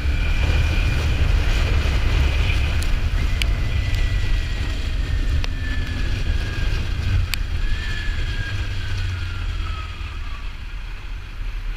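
Wind rushing over the microphone of a Kawasaki Ninja 400 at riding speed, with a faint whine that slowly drops in pitch, and the whole sound easing off a little near the end as the bike slows. A few sharp ticks.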